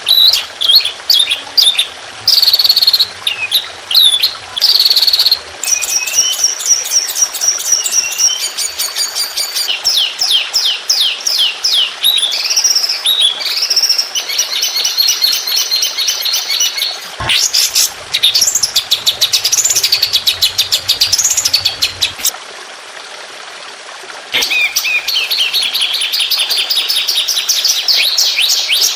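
Songbird song for training other birds: fast, repeated chattering trills and chirps, with sweeping whistled phrases in the middle. The song breaks off for about two seconds near the end, then the rapid trilling starts again.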